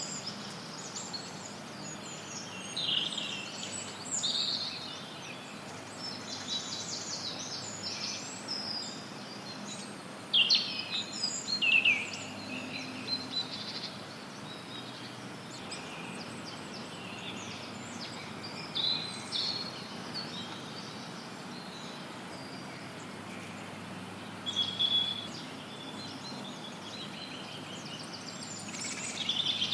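Forest songbirds chirping and singing in short, scattered phrases over a steady hiss of added white noise. The loudest bursts of song, with quick falling notes, come about a third of the way in.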